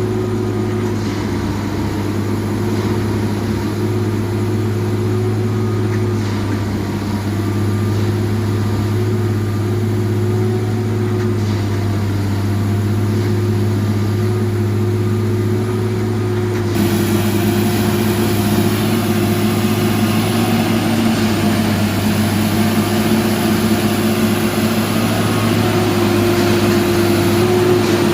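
Diesel engine of a Duomatic railway track-tamping machine running steadily: a constant low hum with a steady tone above it. About two-thirds of the way through it grows a little louder and hissier.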